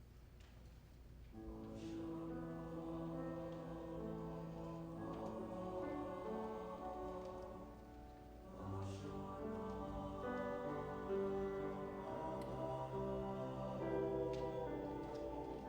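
High school choir singing sustained, held chords. It comes in about a second and a half in, after a quiet moment, and dips briefly just past halfway before the next phrase.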